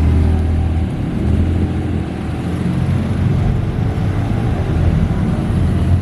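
Car engine and exhaust rumbling steadily at low revs, the level rising and falling slightly.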